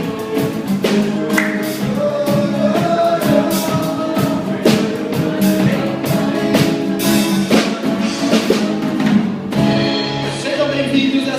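A small band playing an upbeat song, with a drum kit keeping a steady beat and a sung melody over it.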